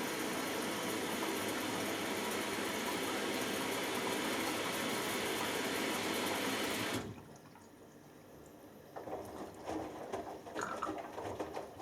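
Hoover Dynamic Next front-loading washing machine filling: a steady hiss of water running in through the inlet, which shuts off suddenly about seven seconds in. A couple of seconds later the drum starts turning, and the wet load sloshes and tumbles irregularly.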